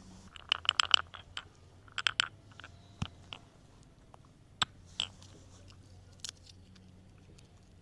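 Hands working over food preparation: a run of sharp crackling, crunching clicks in quick clusters in the first second and again around two seconds in, then scattered single clicks.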